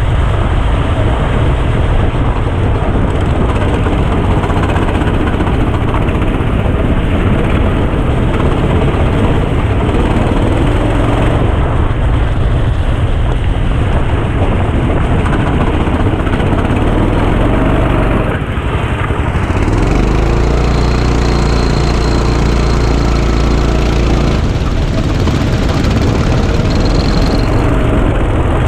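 Go-kart engine running through a lap, heard onboard under a dense wash of noise. The sound dips briefly about two-thirds of the way in, then picks up again.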